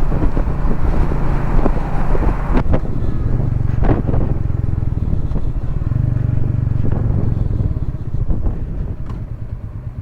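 Royal Enfield Meteor 350's single-cylinder engine running at a steady cruise, with wind and road noise, easing off over the last couple of seconds.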